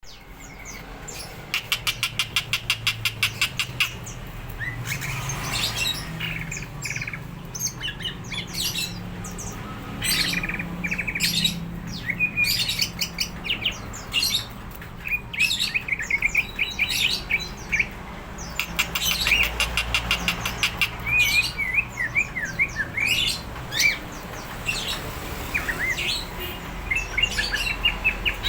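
Cucak ijo (greater green leafbird) in full song: a fast rattle of rapidly repeated notes near the start, then a continuous run of varied chirps and whistled phrases that slide up and down in pitch.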